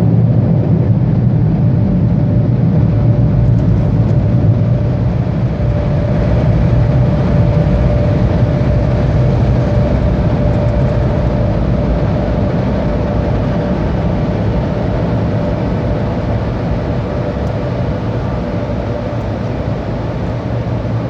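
Automatic car wash air-dryer blowers running, heard from inside the car: a loud, steady rush of air with a steady whine that slowly fades toward the end.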